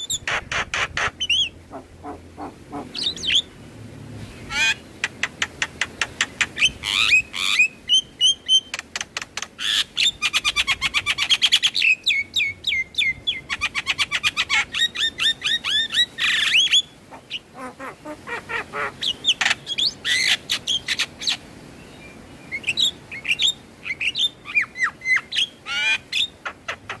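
Javan myna (jalak kebo) singing: long bouts of fast repeated chattering notes and rattles, mixed with short gliding whistles, with brief pauses between phrases.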